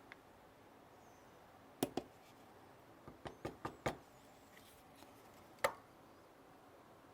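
A few sharp knocks and clicks on a quiet background: two close together about two seconds in, a quick run of four or five between three and four seconds, and one more a little before six seconds.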